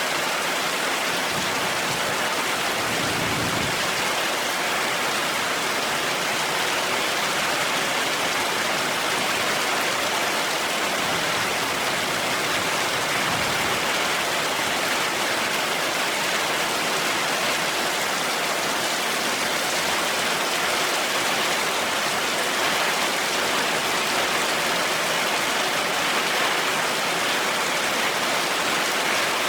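Heavy rain falling steadily, an even hiss of water with no breaks.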